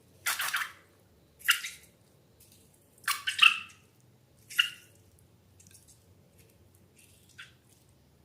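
Wet slime squelching and dripping in short bursts, four in the first five seconds and a faint one near the end.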